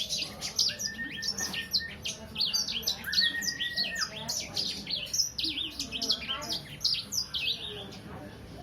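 A young songbird, about three months old, singing a fast, continuous stream of high chirps and trills, twice broken by a longer, steady lower whistle; the song thins out near the end.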